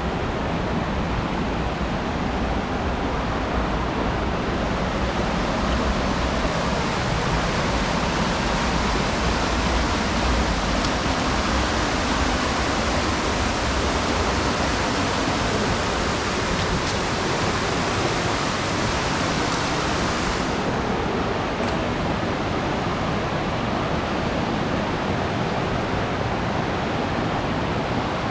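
Steady rush of a mountain waterfall and its stream. The brighter, hissing part eases about twenty seconds in.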